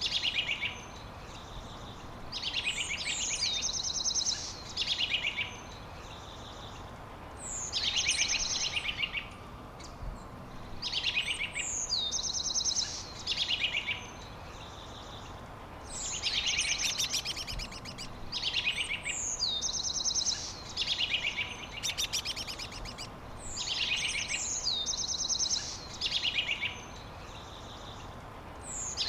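A songbird singing the same phrase over and over, about every four to five seconds with short pauses between: each song opens with a high falling note, runs into a fast buzzy trill, then ends on lower notes.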